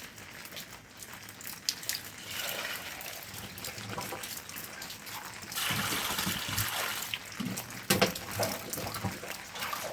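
Water running and trickling, growing louder a little past halfway, with a few sharp knocks near the end.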